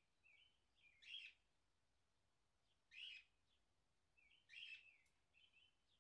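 Faint bird chirping: three short, louder calls about two seconds apart, with softer little falling chirps between them.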